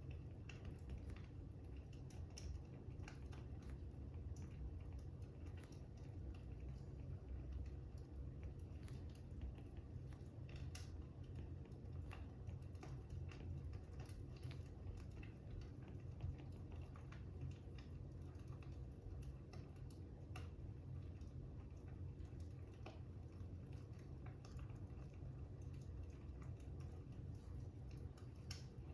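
Fire crackling: scattered small crackles and pops over a low, steady rumble.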